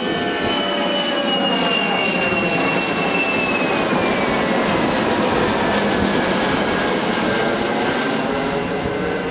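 Jet airplane's engines running loud and steady during a touch-and-go, with a high whine that slowly falls in pitch over the first few seconds.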